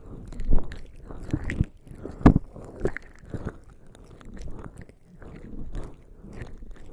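Bare skin coated in lubricating jelly rubbing and pressing against a microphone's ears, making irregular wet, sticky squelches and taps several times a second, louder in the first half.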